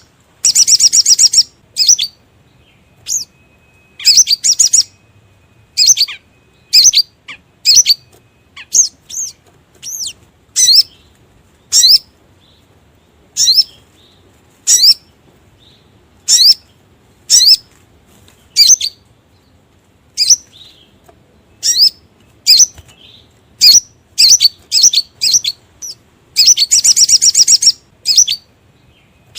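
Sogon (sogok ontong) bird calling, a lure recording: sharp, high chirps in quick runs, repeated every second or so, with a long rapid chattering trill near the end.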